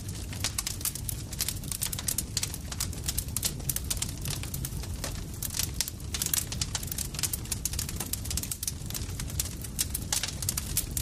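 Wood campfire crackling: a dense, irregular run of pops and snaps over a steady low rumble of the burning fire.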